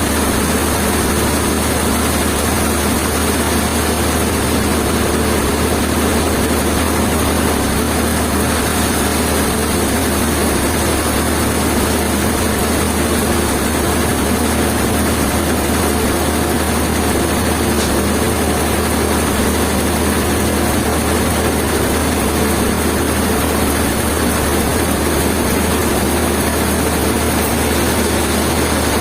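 An engine running steadily at a constant speed, without changes in pitch or load.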